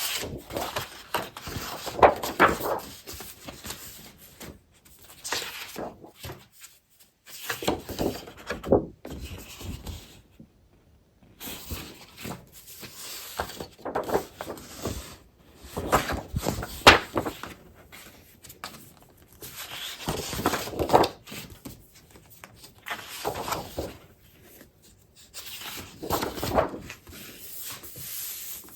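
Paper crafting supplies and their packaging being handled: irregular rustling, crinkling and rubbing in uneven bursts, with a short pause about ten seconds in.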